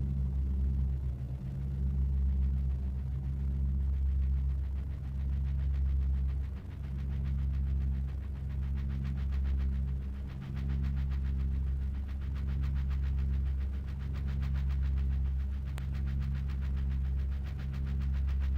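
Deep electronic industrial drone: a heavy low hum that swells and dips every couple of seconds. A fast, fine buzzing pulse grows in the upper range through the second half.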